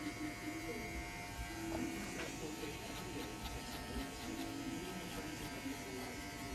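TPOB GO hair clippers running with a steady electric buzz while cutting hair.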